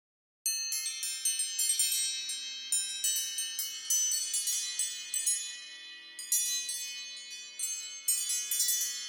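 Chime ringtone: bright metallic chime tones struck at irregular intervals, overlapping and ringing on. It starts after about half a second of silence.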